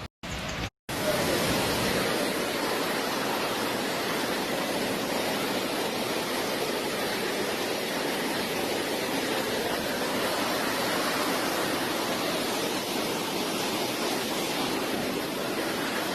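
Steady, even rush of fast-flowing floodwater swollen by heavy rain, with two brief cuts in the sound about a second in.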